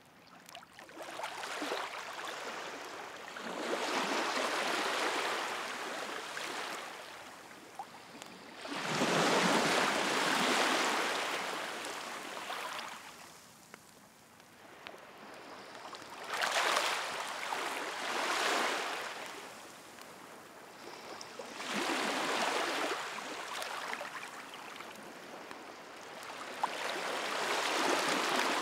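Sea waves washing onto the shore, the surf swelling and fading about every five seconds, with a few faint pops and crackles from a wood bonfire.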